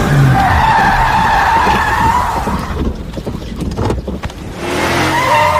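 Car tyres squealing in a long skid. The squeal dies into a rougher rumble with knocks, and a second squeal rises near the end.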